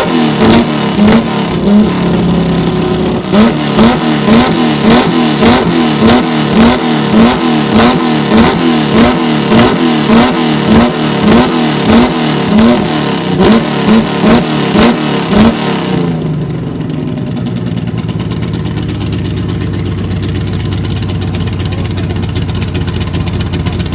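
Chevrolet Opala engine revved in quick repeated blips, about one and a half a second, with a loud exhaust rumble. About sixteen seconds in it drops back to a steady idle.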